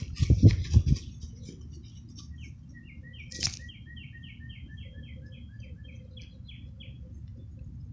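A songbird singing a fast, even series of repeated chirps, about four a second, over a steady low outdoor rumble. A few heavy low thumps come in the first second, and a single sharp click about halfway.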